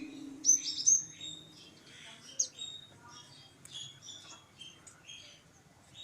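Lovebirds chirping: a run of short, high-pitched calls, the loudest two near the start, then softer chirps throughout.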